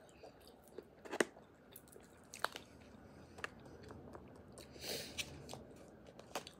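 Close-miked chewing of a pupusa, quiet, with a few sharp wet mouth clicks and smacks and a short hissy swell about five seconds in.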